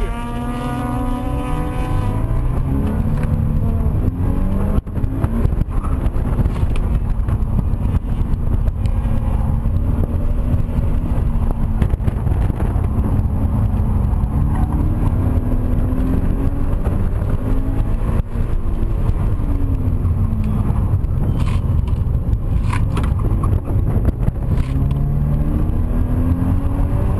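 A stock Subaru BRZ's 2.0-litre flat-four engine, heard from inside the cabin on an autocross run. It revs up steeply from the launch, then climbs and drops in pitch again and again as the car accelerates and lifts between the cones, over a steady rumble of road and tyre noise.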